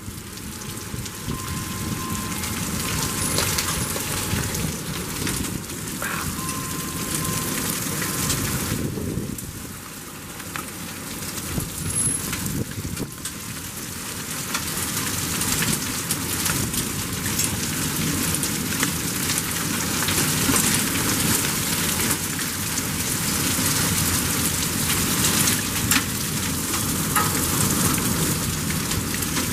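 Torrential thunderstorm rain pouring down on pavement and vehicles, a dense hiss with many small sharp hits. It eases briefly about ten seconds in, then builds louder again.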